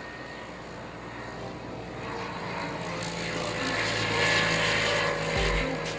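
Propeller-driven light aircraft passing by, its sound growing louder to a peak about four seconds in and then easing off.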